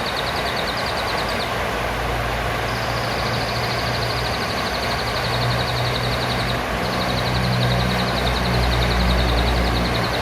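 Blue-crowned hanging parrot (serindit) giving long, rapid high-pitched trills. The trills break off about a second and a half in, resume about a second later, and pause briefly again past the middle. A steady low rumble runs underneath.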